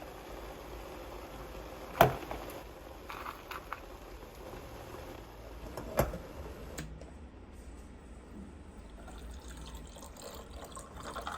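Kitchen sounds: liquid running or being poured, with two sharp knocks about two and six seconds in and a few lighter clicks between them.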